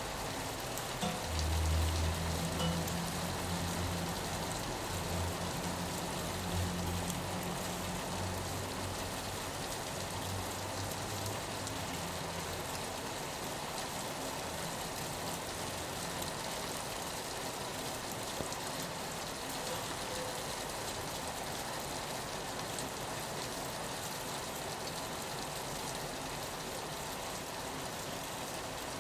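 Steady rain on a window pane. A low hum comes in about a second in and fades away after about eleven seconds.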